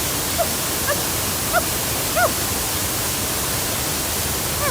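Waterfall rushing steadily, with about five short pitched chirps over it, the last one falling in pitch near the end.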